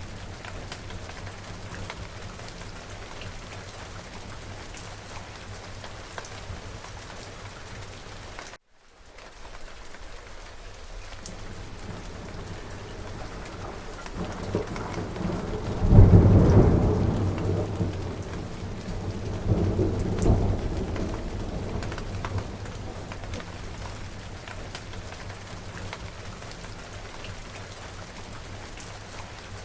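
Steady rain falling, with thunder rolling in about halfway through: a low rumble swells to a loud crack, then a second rumble follows a few seconds later and dies away. The sound cuts out completely for a split second about a third of the way in.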